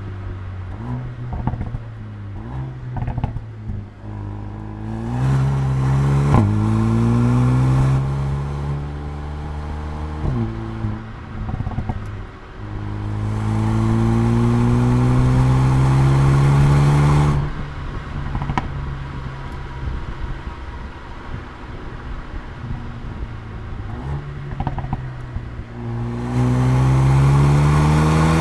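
Mercedes-AMG A35's turbocharged four-cylinder engine and exhaust under hard acceleration, revs rising in three pulls, with a quick upshift about six seconds in. Between pulls it is off the throttle, with sharp exhaust pops and crackles on the overrun.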